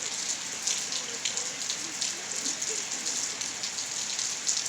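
Steady rainfall, with many separate drops striking a hard surface close by.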